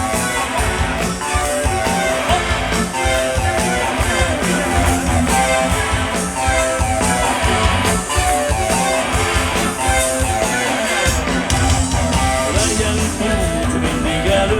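Rock band playing live, an instrumental passage between sung lines, with guitar over a steady beat.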